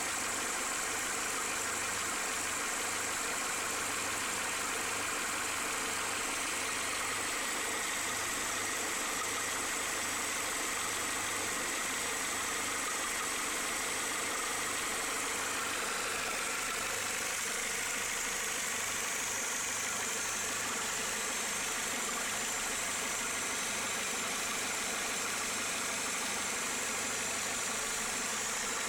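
Renault Clio Mk2 8-valve petrol engine idling steadily, with a steady high-pitched tone over the running engine. This is the noise the owner has heard since a belt was changed.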